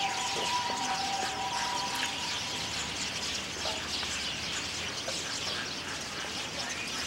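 Small birds chirping over a steady outdoor hiss, with a steady two-note tone that cuts off about two seconds in.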